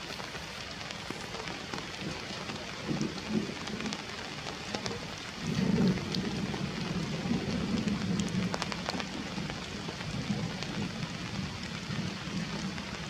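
Steady rain falling, with separate drops ticking now and then. About five seconds in, a louder low rumble joins it and keeps going.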